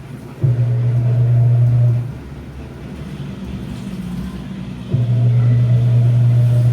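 Washing machine running its wash cycle: a steady low rumble, broken twice by a loud low motor hum that starts sharply, about half a second in and again about five seconds in, each lasting a second and a half to two seconds.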